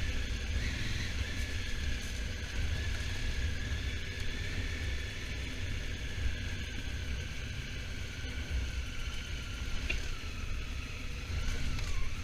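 Honda Africa Twin motorcycle under way: heavy wind rumble on the microphone over the bike's running noise, with a steady whine that slowly drops in pitch and dips more sharply near the end.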